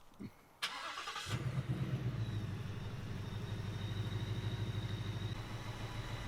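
A Fox-body Mustang drag car's engine is cranked by the starter for under a second and catches about a second in. It then settles into a steady idle, with a thin high whine over it.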